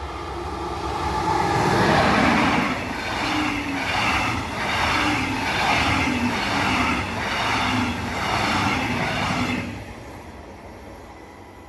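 A train passing close by. It builds up, pulses regularly a little faster than once a second as the cars go past, and falls away near the end.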